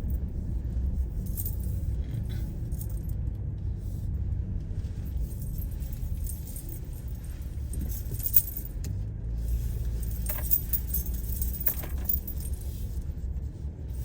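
Car running on the road, heard as a steady low rumble, with light jingling and small rattles now and then and a sharp click about eight seconds in.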